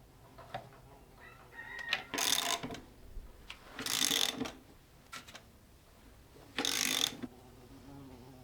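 Ratchet wrench worked in three short rasping bursts, about two seconds apart, with small clicks between: tightening nuts on the threaded rods that clamp the glued oak laminations.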